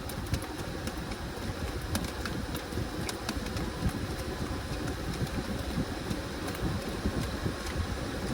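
Washing machine running with a load of towels: a steady rumble with scattered light clicks and knocks.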